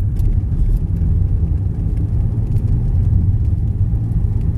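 Steady low rumble of a Jeep driving on a slick, snow-covered road: engine and tyre noise.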